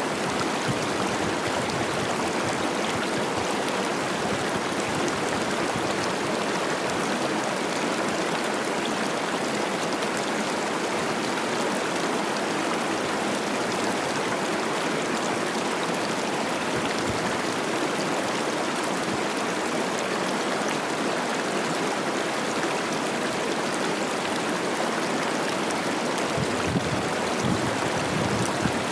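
Cache la Poudre River running high with spring snowmelt: a steady rush and babble of fast water over rocks.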